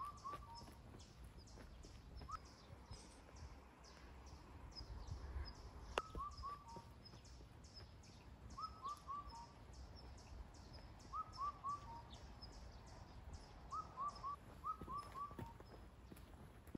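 Birds calling faintly: a short falling call repeated in quick groups of three or four every few seconds, over a fast, steady run of high chirps.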